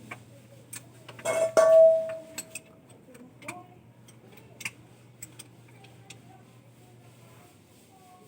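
Light metallic clicks and clinks of small metal objects being handled. About a second in, one louder metal clink rings on briefly with a clear tone.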